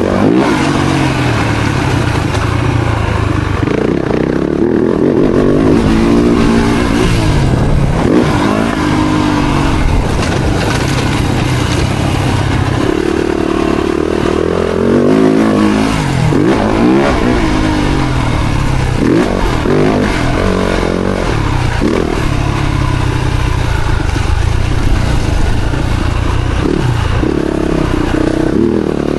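Four-stroke Yamaha motocross bikes being ridden hard, engines revving up and dropping off again and again as they accelerate and shift. At times two engines are heard at once.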